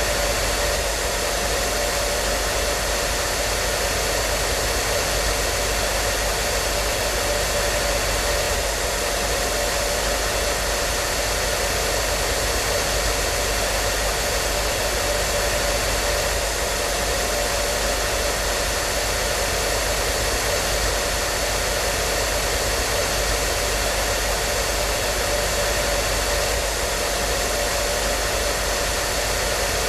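Hair dryer running steadily: an even rushing hiss of blown air with a faint steady motor hum, unchanging throughout.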